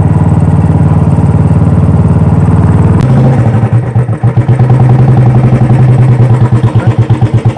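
Royal Enfield Classic 350's single-cylinder engine and exhaust running steadily, then about three seconds in dropping to a slow idle with the bike's evenly pulsing thump.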